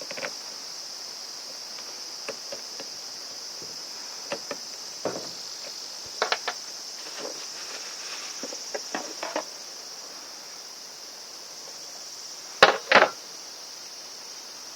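Steady high chirring of insects, likely crickets, with scattered short clicks and knocks of parts being handled during reassembly. Two louder knocks come close together near the end.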